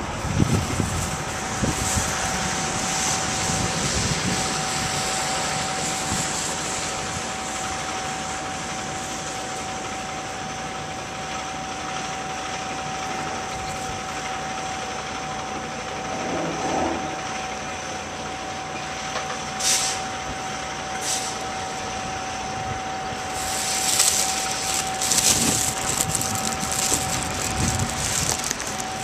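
Delivery truck running, with a steady whining tone over its noise. There are two sharp clicks about two-thirds of the way through, and short bursts of hiss near the end.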